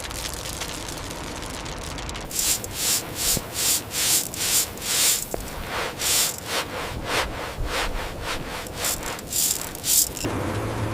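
Rhythmic rasping strokes, about three a second, like hand-sanding or filing, starting about two seconds in after a steady hiss. Music comes in near the end.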